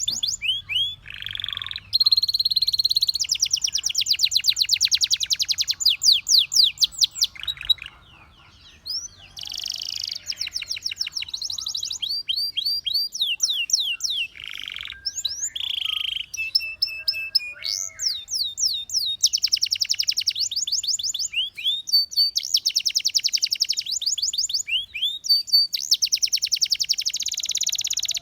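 Domestic canary singing: long fast trills of rapidly repeated high notes and rolls, with a brief pause about eight seconds in.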